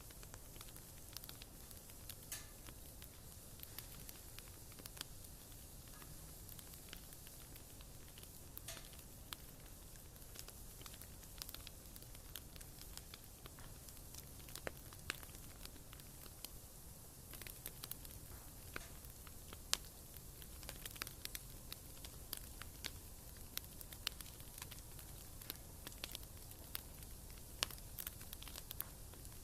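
Wood fire burning in a fireplace, crackling with irregular sharp pops and snaps over a faint steady hiss; the pops come more often in the second half.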